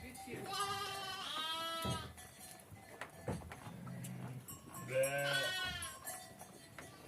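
Two long bleats from the herd's small livestock (sheep or goats), one starting just after the start and one about five seconds in, with a short sharp click between them.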